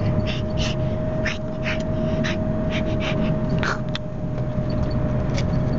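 A person taking short, breathy gasps at irregular intervals over the steady low rumble of a moving car's cabin. A thin steady tone holds throughout.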